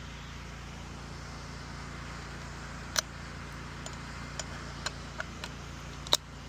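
Pressure washer running with a steady hum and hiss, interrupted by a sharp click about halfway, a few lighter ticks, and a louder click near the end.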